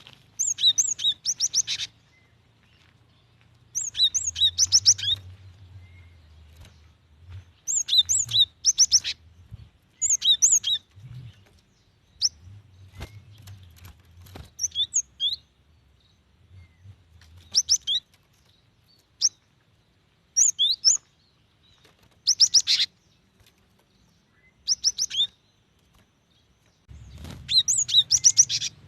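Female cinereous tit (gelatik batu) calling, the contact call a female uses to draw a male: short bursts of rapid, high chirping notes, a new burst every two to three seconds.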